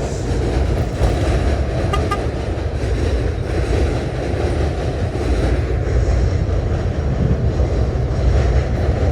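Steady low rumble of a moving vehicle, even throughout with no clear change.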